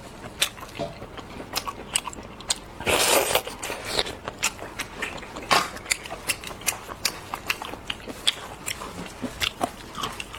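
Close-miked biting and chewing of sauce-marinated seafood: a run of sharp crunches and wet clicks, with a denser, longer crunching burst about three seconds in and another loud crunch about halfway through.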